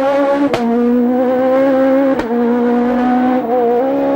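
Four-cylinder rally car engine held at high revs on full throttle, its pitch nearly steady, with two sharp cracks about a second and a half apart, each followed by a slight dip in pitch.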